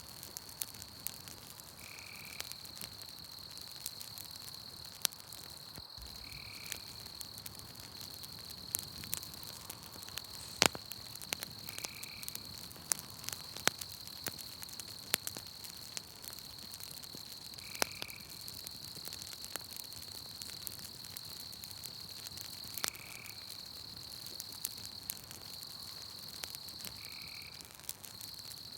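Campfire crackling with scattered sharp pops, over a steady high-pitched insect trill. A short frog call repeats about every five seconds.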